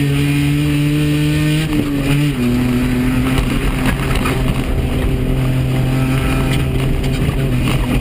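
Rally car's engine running hard at speed, heard from inside the cabin. Its pitch steps down twice about two seconds in, then holds steady under road noise.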